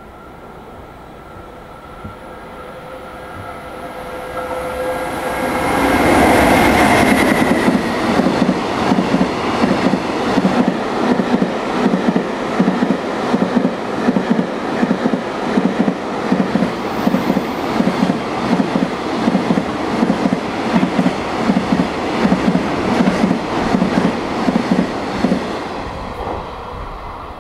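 Fast JR Freight container train passing a station platform. The approaching locomotive builds to a loud rush, then a long string of container wagons goes by with a steady, rhythmic clickety-clack of wheels over the rail joints, which fades away near the end.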